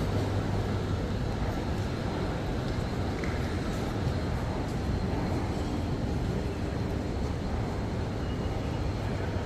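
Railway station ambience: a steady low hum and rumble, as of trains and station machinery, with a few faint clicks and taps.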